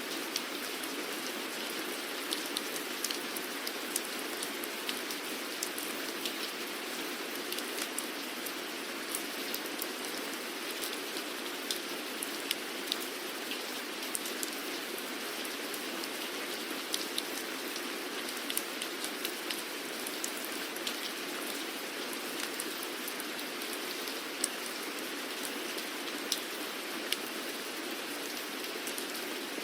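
Steady rain falling, an even hiss with many individual drops ticking sharply on a surface throughout.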